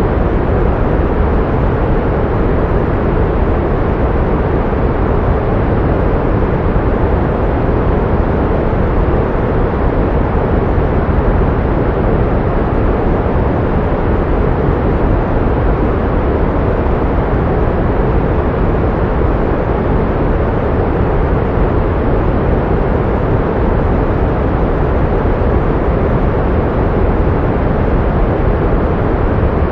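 Pink noise: a steady, unchanging rushing noise, heavy in the low end and dull at the top, used to mask tinnitus.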